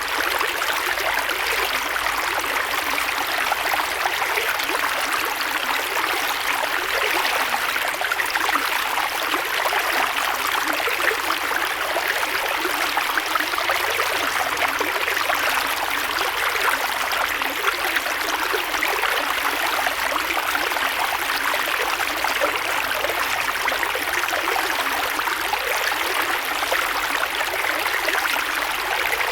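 Creek water flowing over stones: a steady rushing and babbling with fine splashing.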